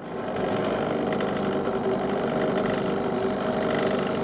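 Electric drill running steadily, its bit boring into hardened steel, with a thin high whine from the bit on the metal from about a second in.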